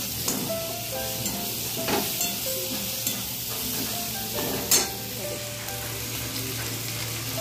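Paneer, onion and peas frying in oil in a black kadai: a steady sizzle, with a metal spatula scraping and knocking against the pan every second or so. The sharpest scrape comes near the middle.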